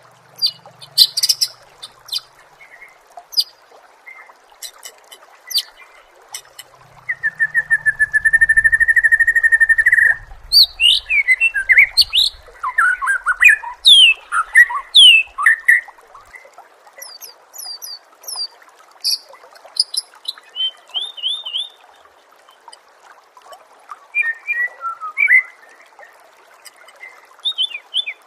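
Recorded songbird song used as a masteran, a training track for contest cage birds such as the murai. It opens with sharp chips and clicks. About seven seconds in comes a steady buzzing trill lasting some three seconds, then a run of loud, swooping whistled phrases and quick high notes.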